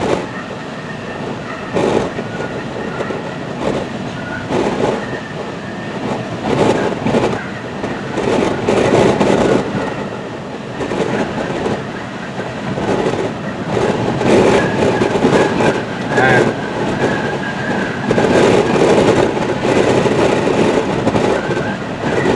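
Tropical-storm wind blowing hard across the microphone, swelling into strong gusts and easing every few seconds.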